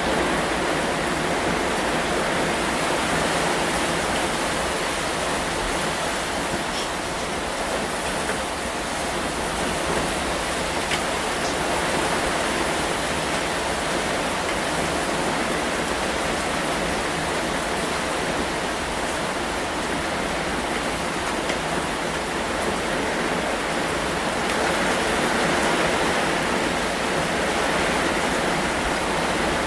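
Steady rain falling, an even hiss that barely changes in level.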